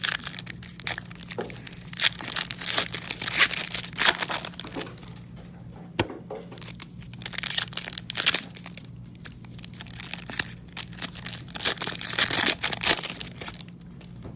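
Foil or plastic trading-card pack wrappers being torn open and crinkled in several bursts, with a sharp click about halfway through.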